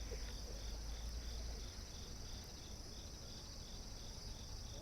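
Insects stridulating: a steady high trill with a second insect chirping evenly about four times a second beneath it, in the manner of field crickets. A low rumble runs under it for the first couple of seconds.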